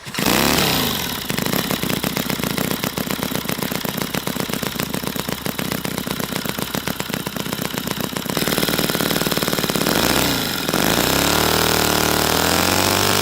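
Miniature V-twin model engine running with a rapid, even firing beat. Its pitch climbs in the first second, dips and rises again about ten seconds in, then holds at a higher, wavering speed.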